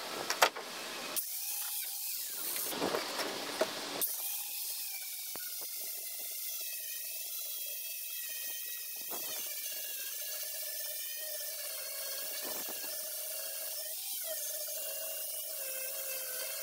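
Handheld power grinder running with a steady, slightly wavering whine, most likely grinding the boat's transom. The first few seconds are choppy, with a few sharp clicks and abrupt starts and stops.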